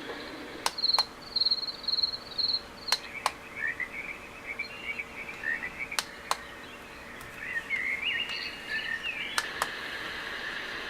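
An AuCuTee white noise machine playing recorded birdsong through its speaker: first a quick run of repeated high chirps, then lower warbling chirps, changing to a steady hiss near the end. Sharp double clicks every few seconds mark the changes from one sound to the next, which fits button presses on the machine.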